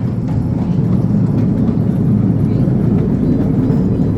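A small zoo train running along its track, heard from aboard: a steady low rumble of the train's drive and wheels.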